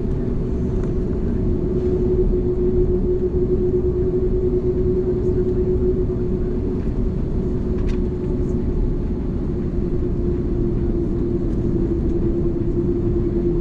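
Steady low rumble of an Airbus A330's engines heard from inside the cabin on the ground, with a constant hum running through it.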